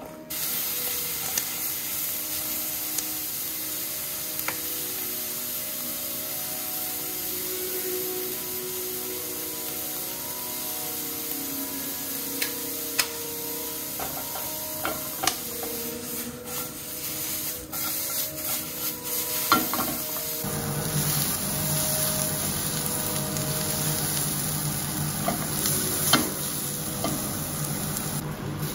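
Food sizzling steadily in a hot pan as it is stir-fried, with a cooking utensil clicking and knocking against the pan several times past the middle. The sizzle turns fuller and lower about two-thirds of the way through.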